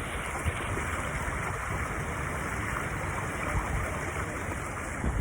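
Running water rushing steadily, with low wind rumble on the microphone.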